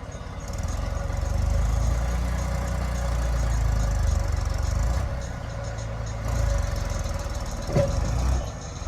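Heavy diesel engine running, its loudness swelling and easing as it works, with one sharp clank near the end.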